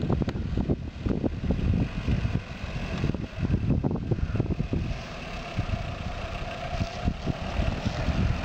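Suzuki Jimny's engine running at low revs as the 4x4 crawls across a grassy slope, heard from outside the vehicle, with heavy wind buffeting the microphone.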